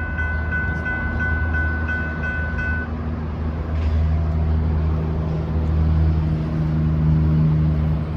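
Diesel train running by with a steady low rumble and an engine note that sets in about four seconds in. A steady high-pitched tone sounds over it and cuts off about three seconds in.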